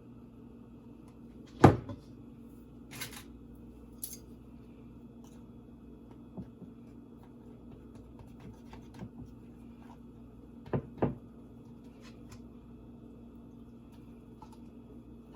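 Knocks and clicks of things being handled in a kitchen, like cupboard doors and dishes: one sharp knock about one and a half seconds in, a few light clicks, and two knocks close together around eleven seconds in, over a low steady hum.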